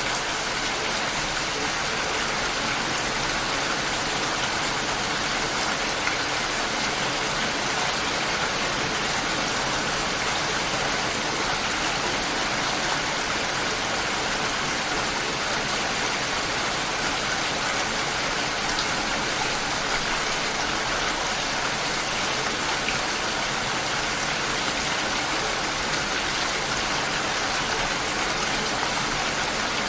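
Steady light rain falling, an even patter of drops.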